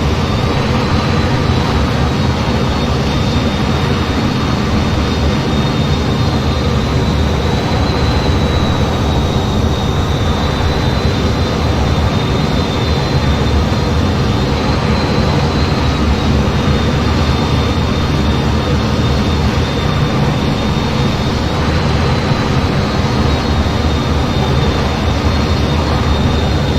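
F-15 fighter jet in flight, heard from on board: a loud, steady jet and airflow noise with a thin, steady high whine.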